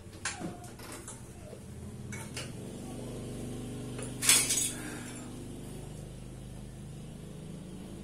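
Metal parts and tools clinking and knocking, with a sharp clink about four seconds in, over a steady low hum.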